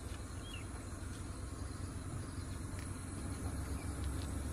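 Low steady rumble of a car's engine running, heard from inside the car with the window open. A faint short high chirp comes about half a second in.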